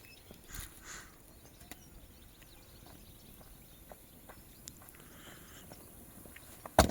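Scattered small clicks and two soft knocks, then a loud, sharp knock near the end.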